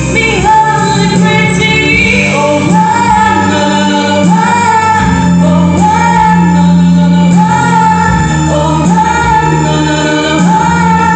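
A song with a woman singing long held notes that slide into pitch over steady instrumental backing.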